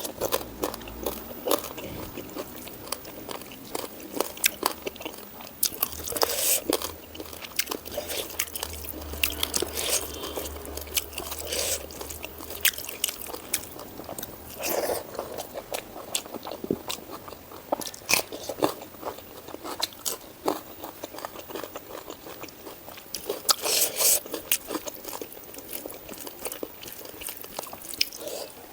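Close-miked eating: a person chewing pork, greens and rice, with crunchy bites and many sharp, irregular wet mouth clicks. There are louder clusters of bites a few times along the way.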